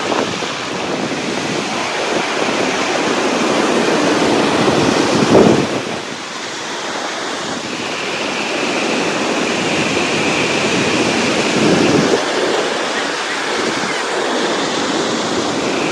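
Waterfall water rushing in a steady, loud wash of noise, with wind buffeting the microphone, strongest in a gust about five seconds in.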